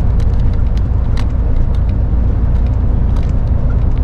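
Lorry running on the road, heard from inside the cab: a steady heavy low rumble of engine and road noise, with a few faint scattered clicks.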